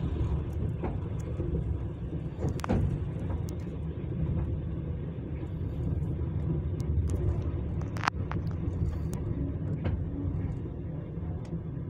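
Passenger train running along the track, heard from inside the carriage: a steady low rumble with a few sharp clicks and knocks, the loudest about eight seconds in.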